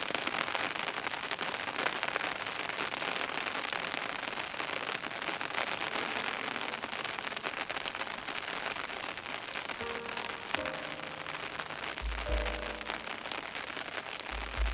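Steady rain falling and pattering on surfaces. About ten seconds in, soft music with sustained notes and deep bass notes comes in over the rain.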